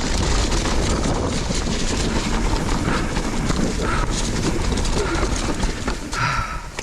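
Mountain bike descending a rough, muddy trail: wind buffeting the camera microphone over a continuous rattle of the bike's chain and frame and the tyres on the ground. It eases off near the end as the bike slows.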